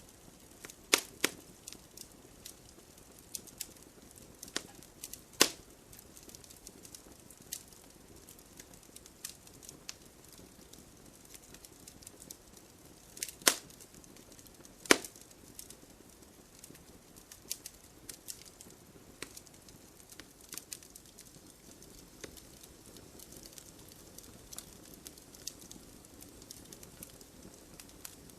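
Wood fire crackling: a low steady hiss with scattered sharp snaps and pops, a few louder cracks about a second in, at five and a half seconds, and twice around thirteen to fifteen seconds.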